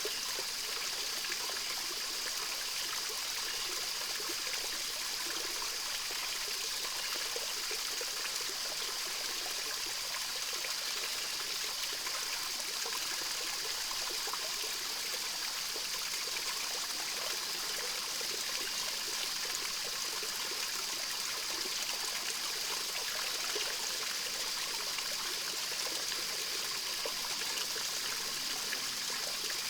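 Small stream of water flowing and trickling steadily, with a steady high-pitched tone running under it.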